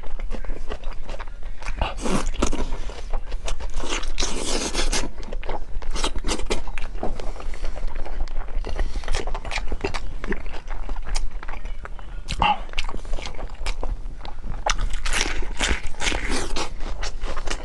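Close-miked eating of bitter melon stuffed with braised meat: a run of bites, wet chewing and mouth noises, with louder crunching bites about 2 and 4 seconds in and again near the end.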